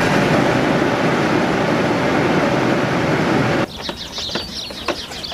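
1996 GMC Sonoma truck engine running steadily after a cold start, then cut off suddenly about three and a half seconds in, leaving birds chirping and a few light clicks.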